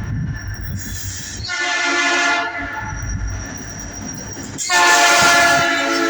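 Approaching freight train's locomotive air horn sounding two blasts: a shorter one about a second and a half in, then a louder, longer one near the end, over the low rumble of the train.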